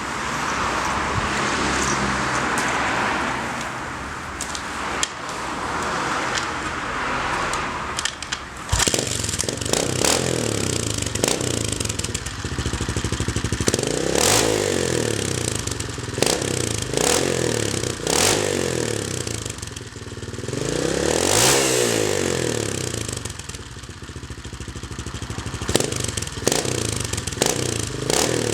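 Beta Rev 4T single-cylinder four-stroke trials motorcycle engine running through an aftermarket hexagonal aluminium silencer, blipped up and down in repeated revs. The first third is a less distinct, swelling noise before a sharp click, after which the engine note is clear.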